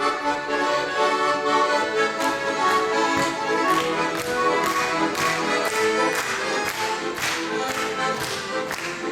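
Accordion-led instrumental break between verses of a song, with sustained chords and a steady beat of about two strokes a second.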